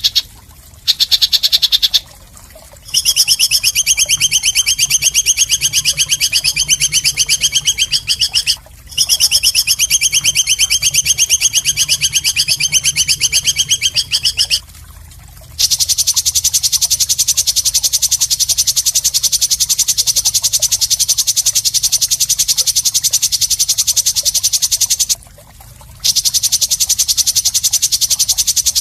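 Songbird's harsh, very fast rattling trill, sung in long runs of about six seconds with short breaks between them. About halfway through, the trill shifts higher.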